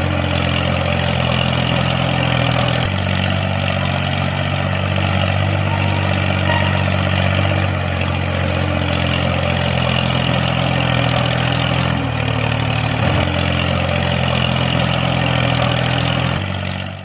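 An engine running steadily with a low, even hum and a mechanical rattle above it, cutting off abruptly at the end.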